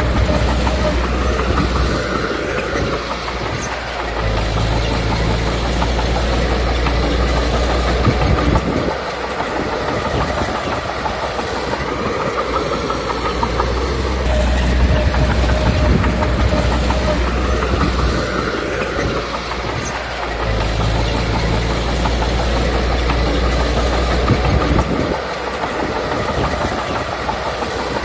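Komatsu D21P crawler bulldozer's diesel engine running under load. The deep rumble swells and eases in a repeating cycle every several seconds, with the steel tracks clanking between the swells.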